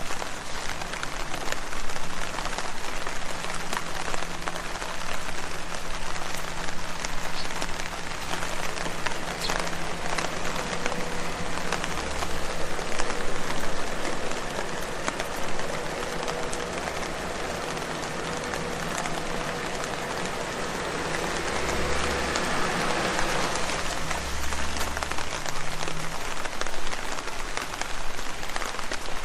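Rain falling on leaves: a steady, dense patter of many drops striking foliage, without letup.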